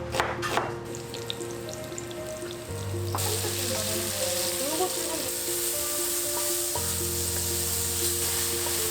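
Food sizzling as it fries in hot oil in a pan, the sizzle starting about three seconds in and holding steady, after a few sharp knocks in the first second.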